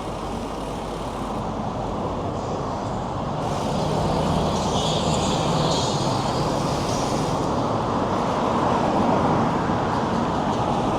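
Road traffic on a city street, cars passing, a steady rush that grows a little louder about four seconds in.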